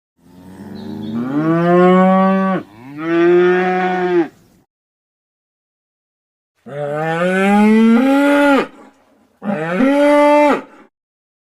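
Cow mooing: two long moos, then after a pause of about two seconds two more, the last one shorter.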